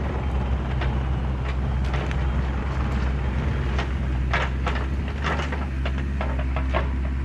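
Compact excavator's diesel engine running at a steady speed, with scattered clicks and knocks from the machine over the second half.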